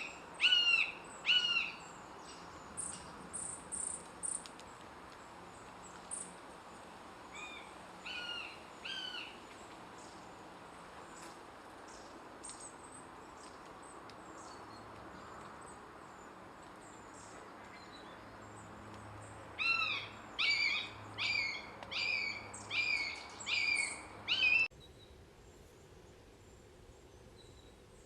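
Common buzzard calling: short, arched mewing calls repeated in groups, a few at the start, two or three about eight seconds in, and a quick run of about seven near the end. Thin high chirps of a smaller bird come a few seconds in, over a steady background hiss that drops off suddenly near the end.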